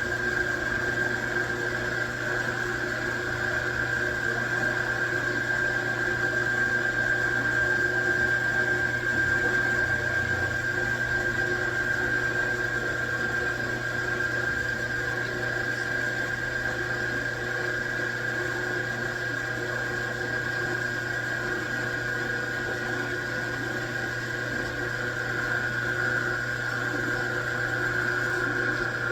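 A machine tool running steadily, its motor or spindle giving a constant high whine over a lower hum.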